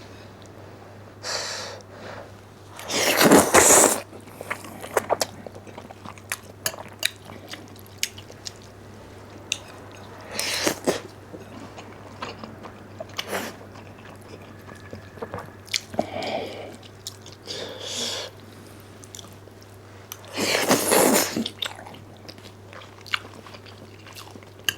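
Close-miked eating of black bean noodles: several loud, drawn-in slurps of about a second each, the loudest a few seconds in and again near the end, with chewing and small wet mouth clicks between them.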